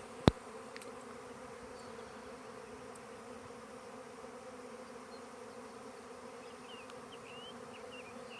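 Honey bee swarm in flight, a steady loud buzzing hum of thousands of bees. A single sharp click just after the start, and a few faint high chirps near the end.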